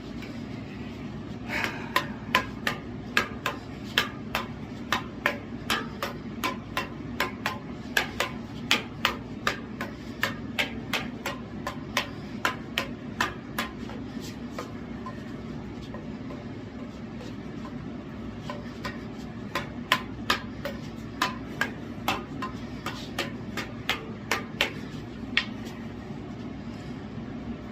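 Devil sticks being played: the hand sticks tap the centre stick in a quick rhythm of about two to three sharp clacks a second, in two runs with a pause of several seconds between them.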